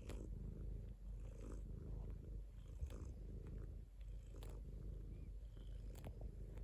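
Domestic cat purring steadily and close up, a low rapid rumble, with a few soft clicks scattered through it.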